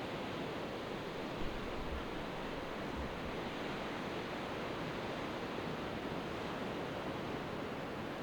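Steady wash of surf breaking, with light wind on the microphone and a couple of soft low thumps about two and three seconds in.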